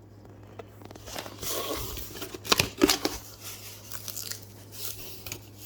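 Packaging being handled and opened, rustling and tearing, with two sharp clicks or knocks close together about two and a half seconds in.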